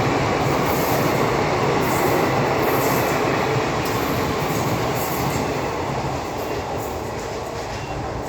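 Passenger train rolling past: the steady rumble of coaches' wheels on the rails, beginning to fade about six seconds in as the train draws away.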